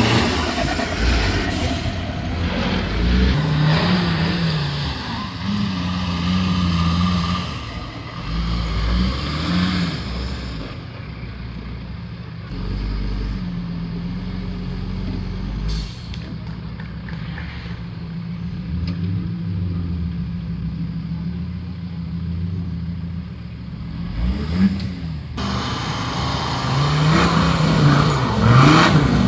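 Off-road vehicle engine revving up and down repeatedly under load, in rises and falls. Through the middle it runs more steadily, then revs hard again near the end.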